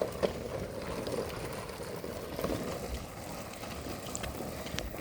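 Small hard wheels of skates rolling over rough asphalt: a steady gritty rumble with a few faint clicks.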